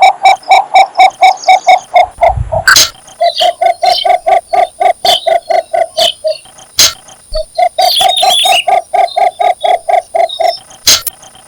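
Cinnamon bittern giving its mating call: a rapid series of short, low, evenly spaced notes, about five a second, in runs of a few seconds broken by brief pauses. A few sharp clicks fall between the runs, and a short higher chatter sounds about eight seconds in.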